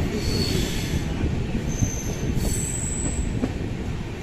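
Coromandel Superfast Express running on the track: a steady low rumble with scattered knocks, and a few brief high squeals from the wheels, one near the start and others about two and three seconds in.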